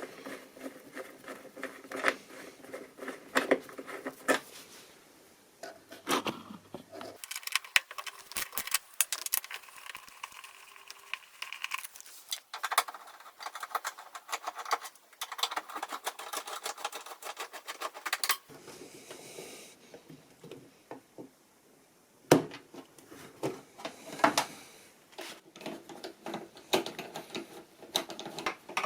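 Clicks, knocks and rattles of tools and metal and plastic panels being handled while the front housing panel of a washing machine is taken off, with one sharper knock about 22 seconds in.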